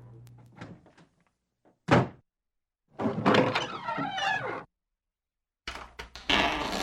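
A series of separate door sound effects: a few light latch clicks, then one loud door thud about two seconds in. After it comes a longer creaking sound of about a second and a half, and near the end more clicks and the start of the next door sound.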